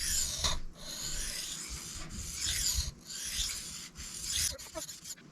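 Steel knife blade stroked back and forth on a new Shapton Kuromaku whetstone, a gritty scraping hiss about once a second. The stone is cutting fast, refining the scratch pattern left by the diamond plate.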